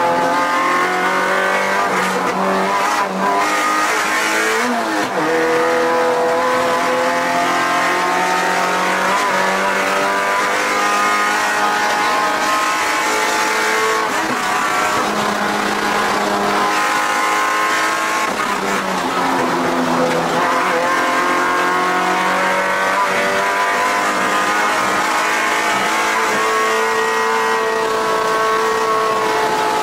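Mazda MX-5 NC Miata's swapped 2.5-litre four-cylinder engine, with cams, driven hard on track and heard from inside the cabin. Its pitch climbs steadily under acceleration, dips as revs fall a few times (notably about 4 s in and about 19 s in), then climbs again.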